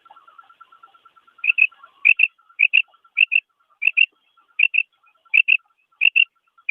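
Female quail calling: sharp two-note calls, about nine pairs repeated steadily every half second or so from about a second and a half in, over a faint rapid ticking.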